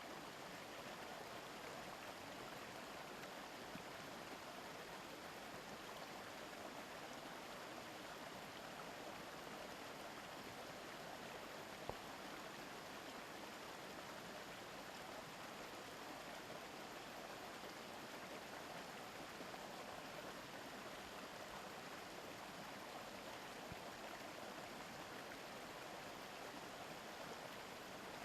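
A mountain stream flowing over rocks: a steady, even rush of running water, with one brief click about twelve seconds in.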